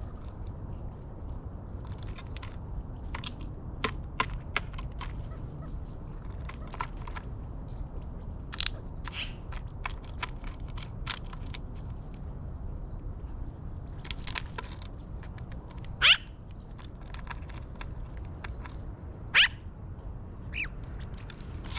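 Wild birds at a feeder: scattered sharp clicks and taps of seed being pecked and cracked, and two loud, short upward-sweeping bird calls a few seconds apart after the middle, over a steady low rumble.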